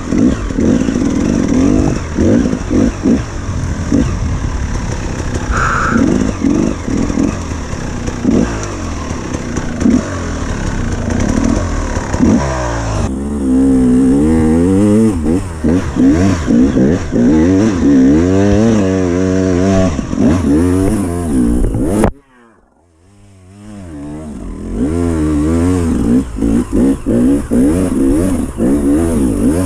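Enduro dirt bike engine revving hard and repeatedly, pitch rising and falling with the throttle, with some clatter. The sound cuts out suddenly about two-thirds of the way through and then builds back up to the engine running again.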